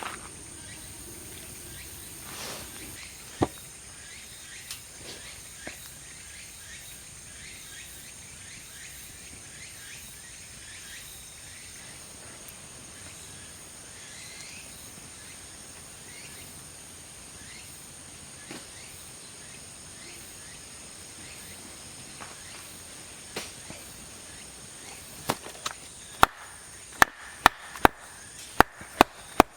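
Outdoor ambience with a steady high-pitched insect drone and a few scattered small clicks. Near the end comes a quick run of loud, sharp knocks, a few a second.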